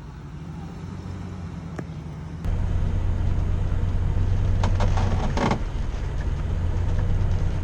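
Vehicle engine running with a steady low hum that steps up louder about two and a half seconds in, with a few short knocks near the middle.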